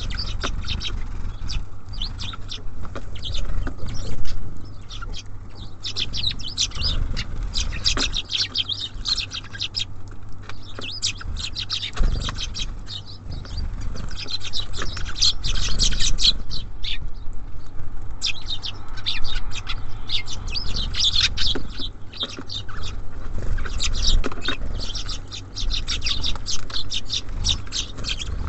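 Small songbirds at a feeder chirping busily: many quick, high chirps in clusters with short pauses. A few sharp knocks come through over a steady low hum.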